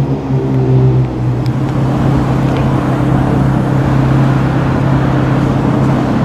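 Sports car engine running at low, steady revs, its pitch settling slightly lower about a second in, with a rushing noise swelling in the middle.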